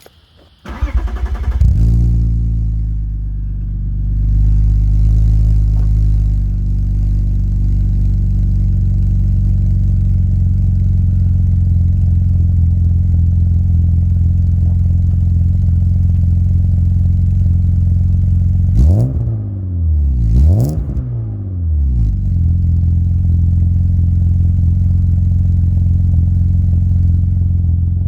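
BMW E36 328's straight-six starting through a freshly welded-in MagnaFlow muffler. The starter cranks for about a second, then the engine catches and settles into a steady idle. Two quick blips of the throttle come about two-thirds of the way in, before it drops back to idle.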